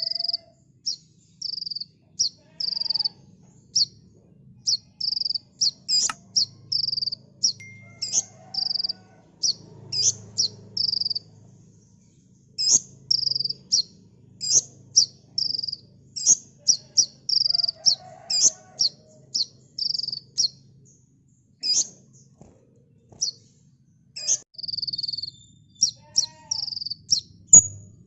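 A sunbird (the 'kolibri ninja' of Indonesian bird-keeping) singing a long run of short, high chirps, about two a second, mixed with sharp rising notes, with a brief pause partway through.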